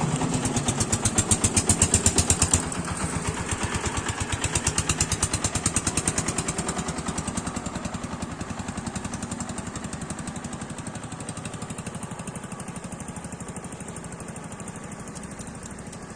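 A small engine running with a rapid, even put-put pulse, loudest for the first couple of seconds, then fading away gradually.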